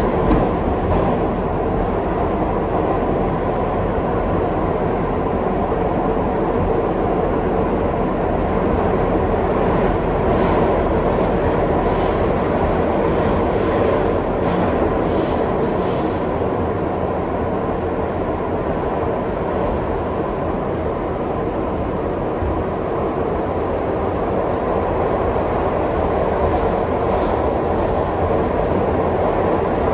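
Kawasaki R62 subway train running along the track with a steady rumble and rattle. A few brief high wheel squeals come in around the middle.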